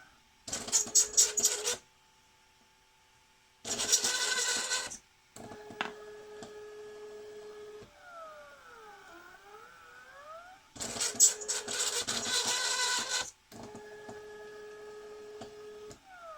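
Stepper motors of a 3D-printed SCARA robot arm whining as the arm moves: steady tones, with rising and falling sweeps in pitch as it speeds up and slows. Three loud, harsh clattering bursts come from the mechanism: one right at the start, one about four seconds in, and a longer one about eleven seconds in.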